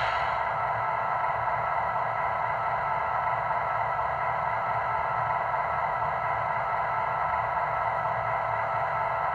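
MTH model NW2/R17 subway work train running, a steady, even mechanical whir that does not change.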